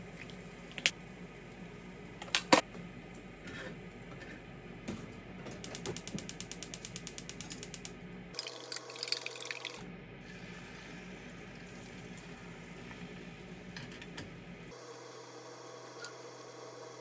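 Kitchen sounds: two sharp knocks, then rapid mechanical ratcheting clicks at about nine a second for a couple of seconds, then a short noisy burst.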